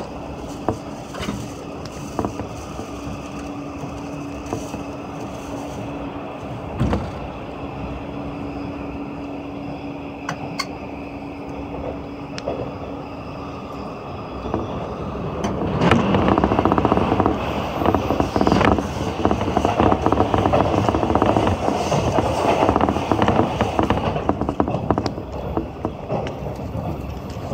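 Running noise of a JNR 185-series express train heard from inside its Green car: a steady rumble of wheels on rail with a low steady hum and a few sharp rail-joint clacks. About halfway through the rumble grows louder and rougher and stays so.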